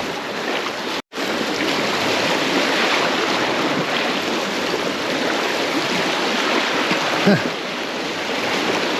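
Steady rushing and washing of sea water around the shoreline rocks. The sound cuts out completely for an instant about a second in.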